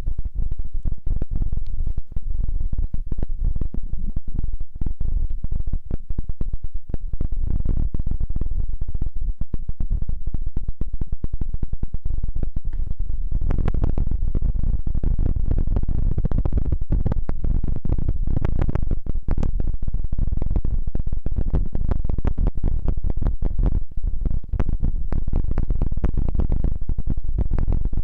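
Dense, muffled rubbing and crackling right against the microphone, deep and continuous, growing fuller about halfway through: close-miked ASMR rubbing sounds.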